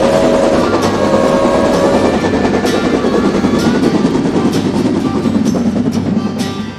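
Music mixed with the running noise and clatter of a Rail King toy train on its track, with a few short held tones near the start.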